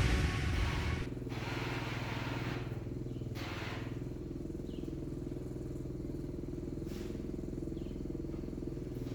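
An engine running steadily at an even speed, after music fades out in the first second.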